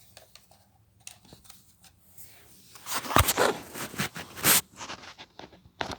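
Handling noise from a Shark vacuum cleaner being turned over to check its underside: scattered plastic clicks and rustles, with a cluster of louder knocks and scrapes about three to four and a half seconds in. The motor is not running.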